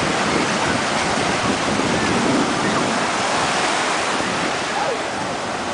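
Ocean surf, a steady wash of breaking waves, with wind buffeting the microphone.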